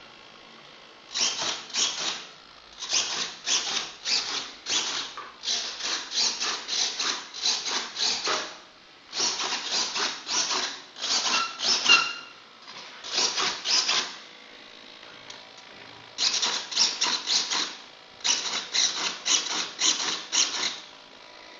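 Quick repeated scraping or rubbing strokes in bursts of several, with short pauses between the bursts and a faint squeak on some strokes.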